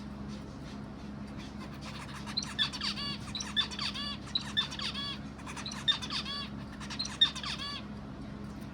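A bird calling in five quick bursts of short chirping notes, about one burst a second, starting about two seconds in. A steady low hum runs underneath.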